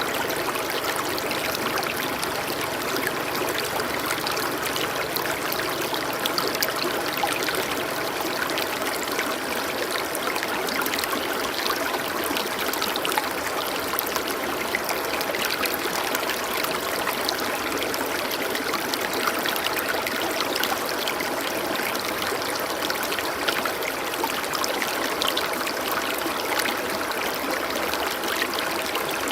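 Steadily flowing stream water, an even rushing and trickling with no breaks.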